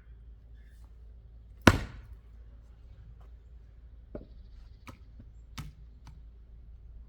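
A single sharp, loud chopping blow into wood about two seconds in, followed by a few lighter knocks.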